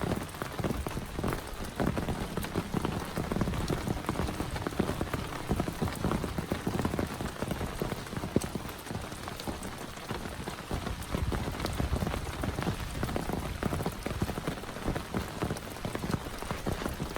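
Heavy rain falling steadily, with a dense patter of close drop impacts and one sharper hit a little past the middle.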